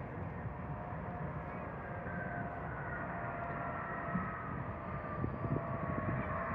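Passenger airliner's engines running, a steady rumble with a whine that slowly falls in pitch.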